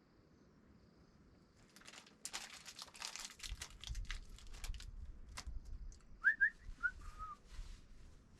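Rustling and crinkling with a low rumble, starting about two seconds in, then four short rising whistled chirps about six seconds in.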